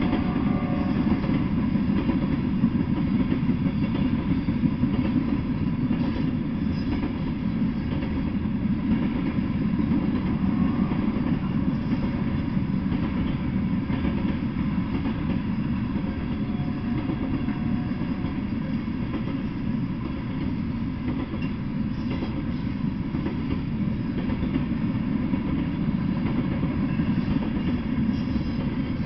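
Freight train of open-top hopper cars rolling past at a steady speed: a continuous low rumble of steel wheels on the rails that neither builds nor fades.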